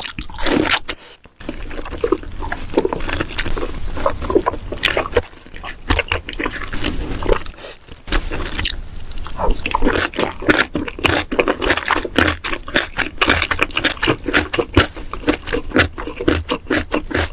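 Close-miked mukbang eating: wet chewing, smacking and crunching of food in many quick irregular bites, with a few short pauses.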